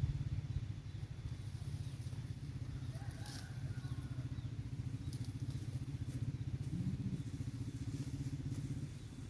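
A small engine running steadily with a fast, even pulse, easing off near the end.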